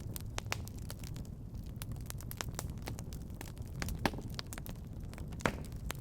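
Fire burning in a fireplace: a steady low rumble of flames with irregular sharp crackles and two louder pops about four and five and a half seconds in.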